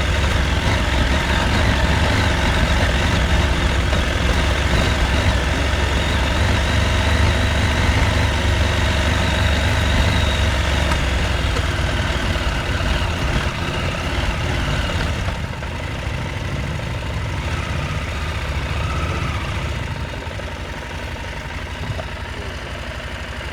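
Husqvarna Norden 901 adventure motorcycle's 889 cc parallel-twin engine running at low revs, with a deep, steady exhaust note. The engine gets quieter about two-thirds of the way in and eases off further near the end.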